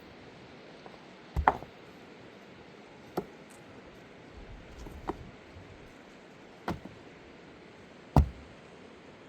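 A series of five sharp knocks, about one and a half seconds apart; the first, a quick double hit, and the last are the loudest.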